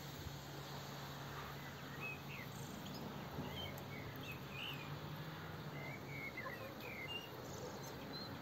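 Quiet farmyard background with a steady low hum. Small birds give scattered short, high chirps from about two seconds in until near the end.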